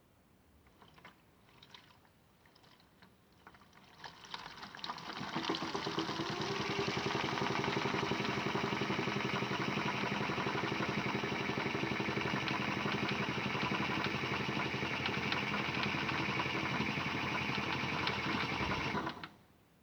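Modified Miele W1 toy washing machine running: a few light clicks and knocks, then its small electric motor starts about four seconds in and runs with a steady whine, stopping abruptly near the end.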